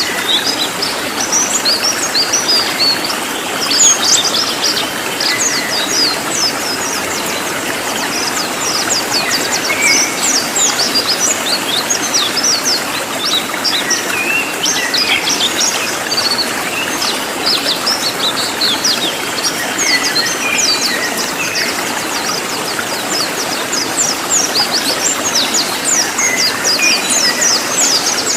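Cililin songbird singing in dense, rapid bursts of short, high, sharply sliding notes, the loud, tightly packed "nembak" style used as masteran for training other songbirds, over a steady background hiss.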